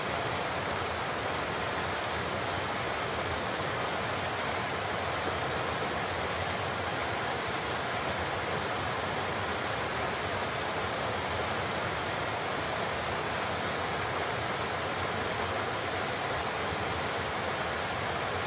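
Large waterfall pouring steadily, a dense even rush of falling water with no breaks or changes.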